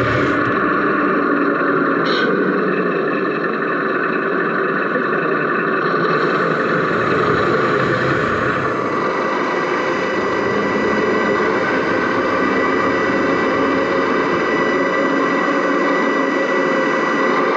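Steady engine-like running sound of a radio-controlled Mercedes Actros SLT model truck, picked up from inside its cab, made of many steady tones. The tone pattern shifts slightly about seven to nine seconds in.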